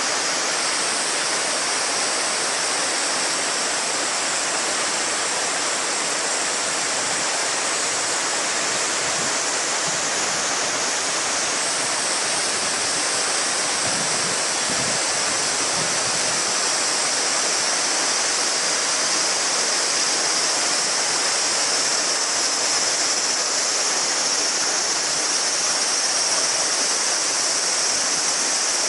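A shallow river babbling steadily over stones. A dense chorus of summer cicadas drones high above the water, swelling and shifting slightly in pitch over the span.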